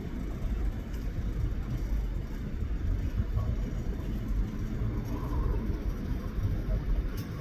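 York Railway Company MPA-1 locomotive running with a steady low rumble.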